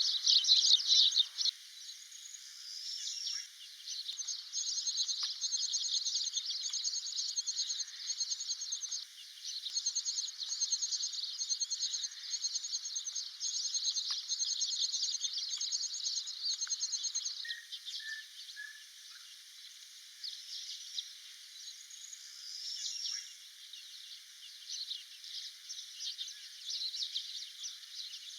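Outdoor scrubland ambience of small birds chirping. From about 4 seconds in, long strings of quick, high repeated notes run for roughly 13 seconds, over a dense insect-like buzz that thins out in the middle and returns near the end.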